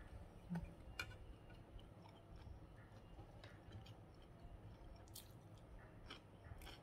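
Faint chewing of a mouthful of rice with crispy chili sambal, with a few soft clicks about half a second and a second in and again near the end.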